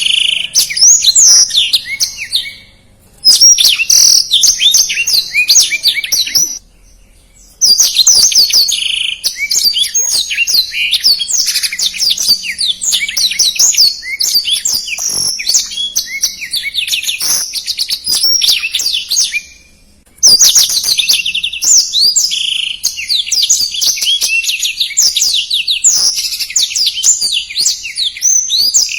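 Blackthroat (black-throated canary) in full song: long, fast, tightly packed, high-pitched warbling phrases. Short pauses break the song about three seconds in, near seven seconds, and around twenty seconds.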